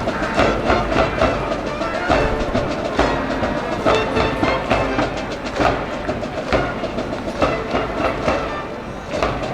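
School cheering band in the baseball stands, brass and drums playing a cheer song over a steady drum beat.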